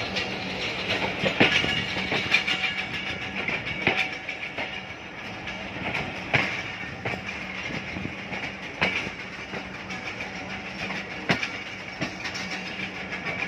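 Passenger train coach running at speed, heard from inside by a window: a steady rushing clatter with irregular sharp clacks as the wheels pass over rail joints, and a steady low hum underneath.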